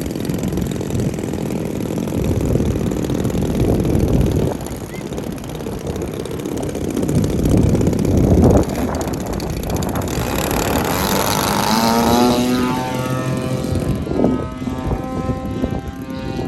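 Large radio-controlled model airplane's engine and propeller in flight. At first it is buried in a low, gusty rumble. About two-thirds of the way in the engine note stands out clearly and glides in pitch as the plane passes.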